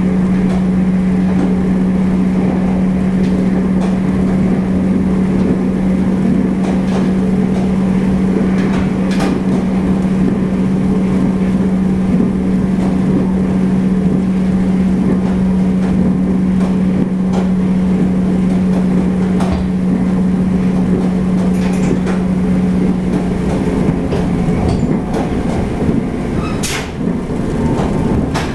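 Running noise inside a local train carriage at speed: a steady rumble of wheels on rail under a constant hum, with a few sharp clicks. The hum drops slightly in pitch about 23 seconds in.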